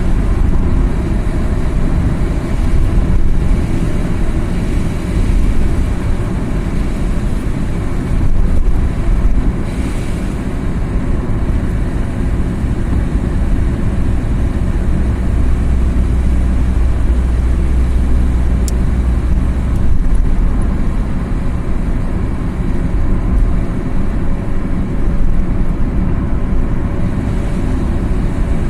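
Car driving along a road, a steady low engine and tyre rumble with small swells in level.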